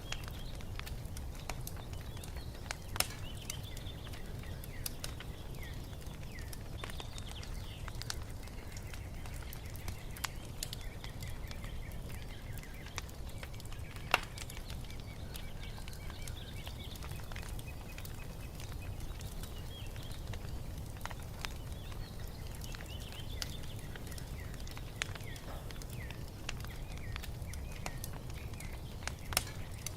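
Wood fire crackling with scattered sharp pops, the loudest about 14 seconds in, over a low steady rumble. Small birds chirp and twitter faintly throughout.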